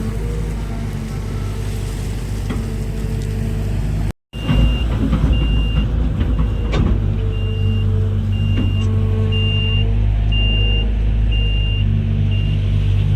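Heavy diesel machinery running steadily. About five seconds in, after a brief break in the sound, a reversing alarm starts a steady string of short, high beeps over the engine noise.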